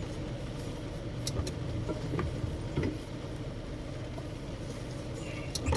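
Steady low drone of a car's engine and road noise heard from inside the cabin, with a few faint ticks.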